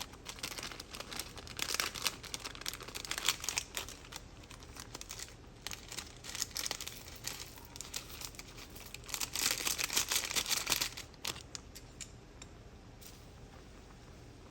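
Plastic seasoning packet crinkling and being torn open, in irregular bursts of rustling that are loudest about ten seconds in and stop about eleven seconds in.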